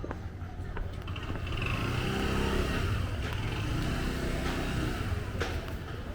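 A motor vehicle driving past, its engine getting louder over the first two seconds or so, then easing slightly and running on steadily.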